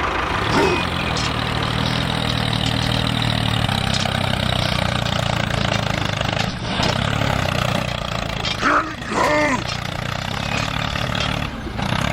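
Small engine running steadily, an even hum throughout. About nine seconds in a brief wavering call rises and falls over it.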